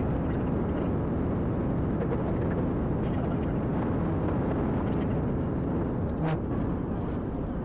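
Car driving at speed: a steady rumble of engine and road noise, with a single short click about six seconds in.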